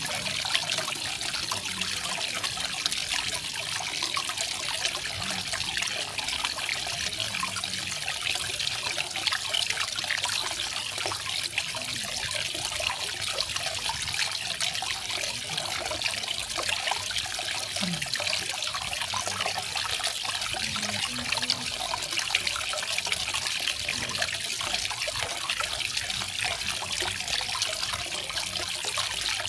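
Garden waterfall: water falling and splashing in a steady, even rush that does not change.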